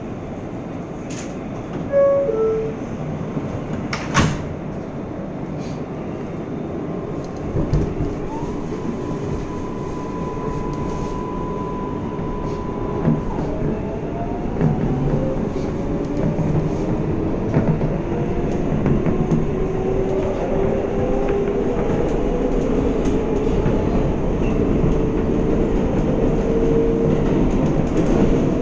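Inside a New York City 7-line subway car: a two-note door chime, a knock as the doors shut a couple of seconds later, then the train pulling out, its traction motors whining in rising tones as it accelerates over steadily louder rumbling wheels.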